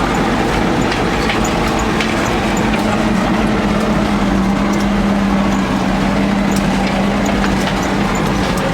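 ZIL-131 army truck's V8 engine running steadily, with scattered clicks and rattles over the engine note, which settles a little lower about two and a half seconds in.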